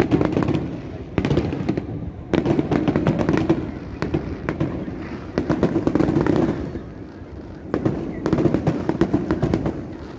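Aerial fireworks going off in rapid volleys of bangs and crackling, five or so bursts of closely packed reports with short lulls between them.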